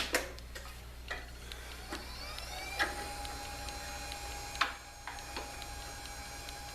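Jet 1221 variable-speed mini lathe starting up after a few clicks and knocks. Its motor whine rises over about half a second and then runs at a steady pitch, with a light ticking about four times a second and one louder knock near the end.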